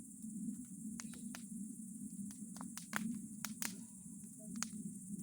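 Bonfire of old boards and pine cones crackling: irregular sharp snaps and pops, a few louder ones about three seconds in, over a steady low background noise.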